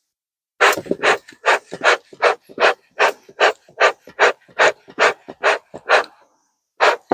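Bee hive smoker bellows being pumped fast, each squeeze a loud puff of air, about three a second, starting under a second in and pausing briefly near the end. The air is fanning the burlap and pine-needle fuel to get it burning and smoking.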